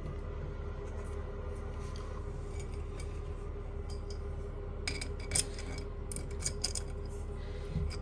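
Small sharp clicks and clinks of toilet tank fittings being handled and screwed on, in a loose run from about five seconds in, over a steady low hum.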